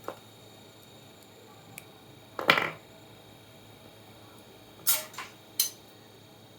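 A few short clicks and knocks of small hard objects being handled: the loudest about two and a half seconds in, then a sharp pair near five seconds and one more shortly after.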